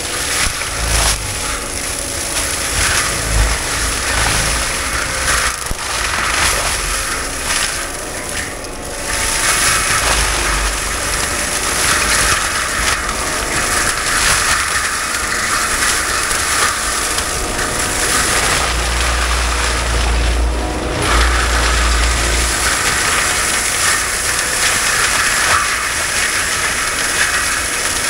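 Heavy machinery running steadily, a loud continuous hiss-like din with intermittent low rumbles.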